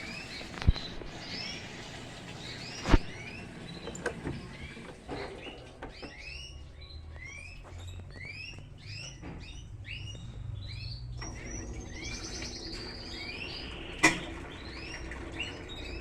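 Small birds chirping over and over, with the low steady rush of an Electrolux LTE12 washing machine filling with water. A few sharp knocks stand out, about a second in, about three seconds in and near the end.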